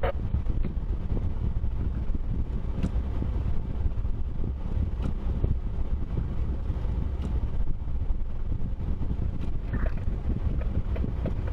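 Steady low rumble of a moving vehicle with wind noise, and a faint tick about every two seconds.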